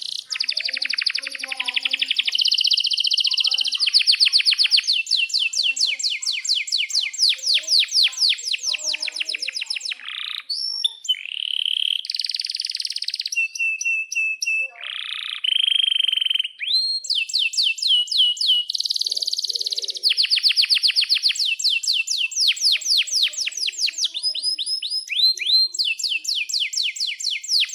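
Domestic canary singing a long, continuous song: fast rolling trills of rapidly repeated high notes, broken by a few held buzzy notes and short pauses.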